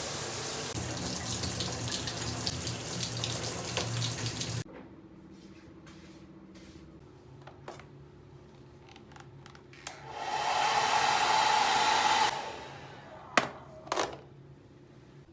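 A hair dryer running with a steady blowing noise and low motor hum, switched off abruptly about four and a half seconds in. Later a couple of seconds of running water, and a few clicks near the end.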